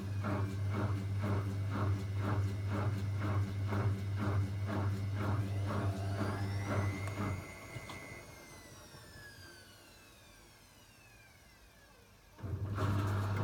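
Zanussi ZWC 1301 washing machine's motor humming while the drum knocks rhythmically, about two or three knocks a second, as it tries to go into spin; about seven seconds in the motor cuts out and winds down with a falling whine, the machine goes much quieter for a few seconds, then the motor hum and knocking start again suddenly near the end. The machine is halting the spin because the load is unbalanced, as the owner comes to conclude.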